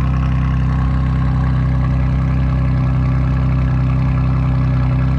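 2021 Ford Bronco First Edition's 2.7-litre twin-turbo V6 idling steadily just after a cold start, heard through a Rough Country muffler-delete exhaust as an even, low drone.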